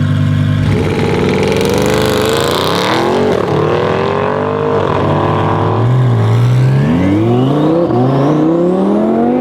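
Twin-turbo Audi R8 V10 engine held at steady revs, then accelerating hard, its pitch climbing through a series of upshifts with a drop at each gear change.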